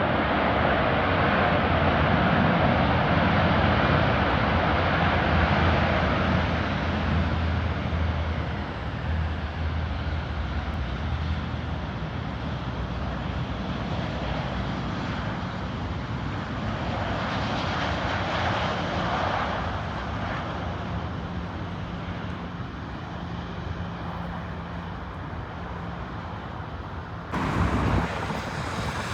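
Jet airliner engines, loudest at the start and fading over about ten seconds into a steady distant roar, which swells briefly in the middle. A sudden burst of noise comes near the end.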